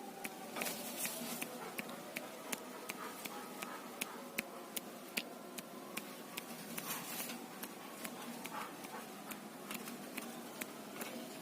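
Quiet, irregular light clicks and taps, a few each second, from a caged songbird hopping about its perches and cage.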